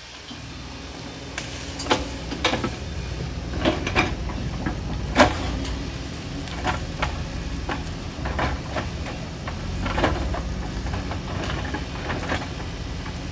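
Excavator's diesel engine running under load, with repeated clanks and knocks of the bucket working rock and soil, the sharpest about five seconds in.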